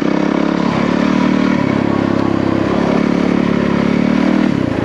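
Yamaha WR450F's single-cylinder four-stroke engine running under way on a trail ride, its note shifting with the throttle about one and a half seconds in, again near three seconds, and dropping near the end.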